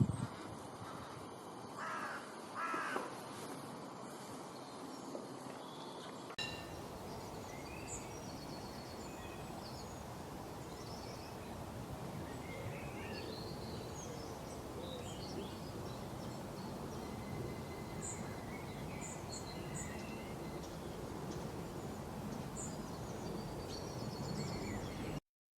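Outdoor ambience with two harsh bird calls about two and three seconds in. After an abrupt change about six seconds in, a steady background hiss with faint, scattered high chirps of small birds.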